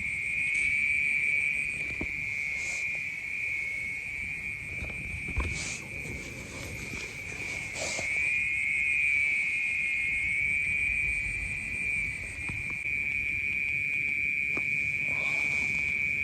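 Night insects trilling steadily in one continuous high-pitched chorus, with a few faint rustles or knocks about five and eight seconds in.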